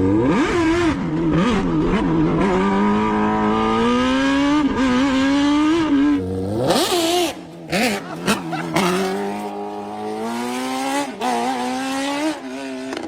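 Engine of an engine-swapped golf cart running hard and revving up and down as it is driven. The pitch wavers and climbs repeatedly. About seven seconds in there is a short hissing, skid-like burst and a brief drop in the engine.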